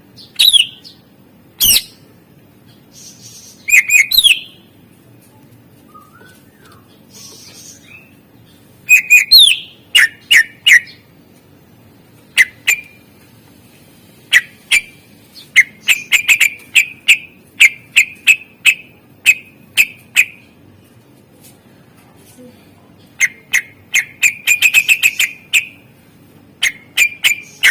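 Cucak ijo (green leafbird) singing in separate loud phrases of sharp chips, squawks and short whistles, some in fast runs of several notes, with pauses of a few seconds between phrases. This is its 'isian' song, full of phrases mimicked from other birds.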